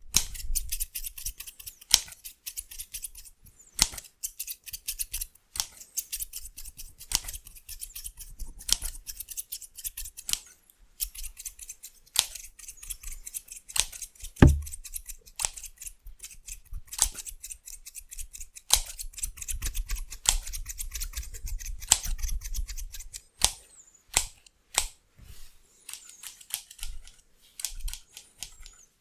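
Scissors snipping rapidly and aggressively in quick, irregular runs of sharp metallic snips. A single dull thump comes about halfway through.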